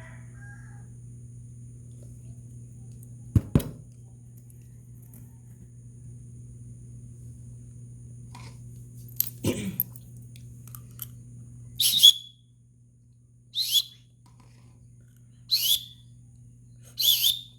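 Two-week-old hand-fed myna chick giving four short, shrill calls, about one every second and a half, in the last third. Earlier come two knocks and a steady low hum, which cuts out just before the calls begin.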